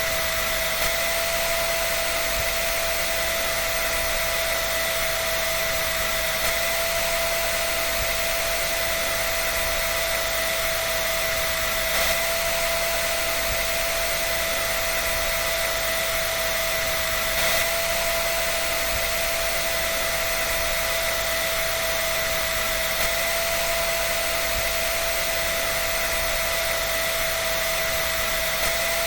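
Dryer running steadily: an even rush of air with a constant whine from its motor and fan.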